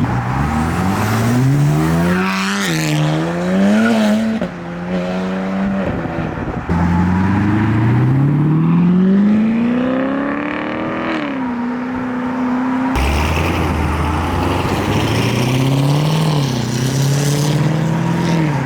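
High-performance car engines revving and accelerating hard, pitch climbing steeply and then dropping at gear shifts. The sound breaks abruptly between several separate passes.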